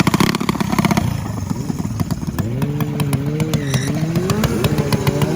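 Minibike engine running at a drag strip: rapid, uneven firing pulses at first, then from about halfway the engine note rises and falls as the throttle is blipped.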